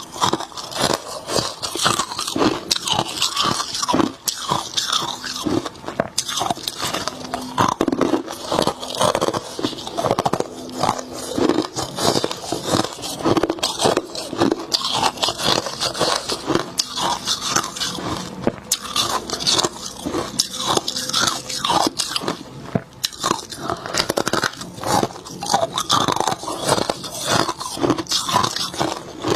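Close-up crunching and chewing of soft, snowy freezer frost: a continuous run of quick, crisp crunches as mouthfuls are bitten and chewed.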